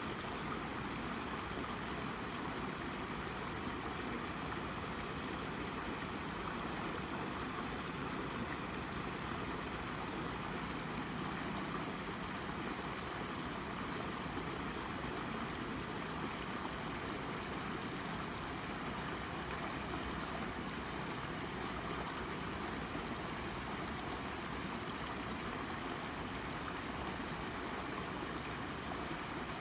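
Shallow brook babbling and gurgling over a rock, a steady, unbroken rush of running water.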